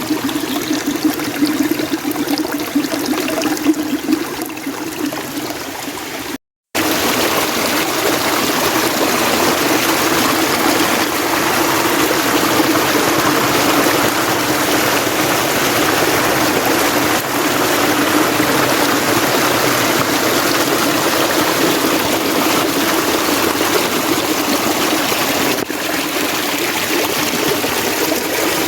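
Mountain stream water running steadily. About six seconds in, the sound drops out for a moment and comes back louder and fuller.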